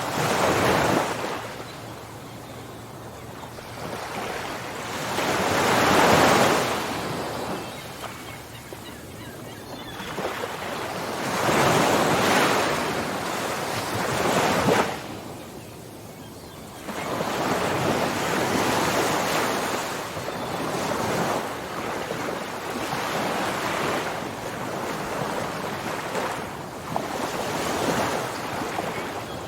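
Ocean surf, waves breaking and washing in swells a few seconds apart, loudest about six seconds in. It dips briefly past the middle, then settles into a steadier wash.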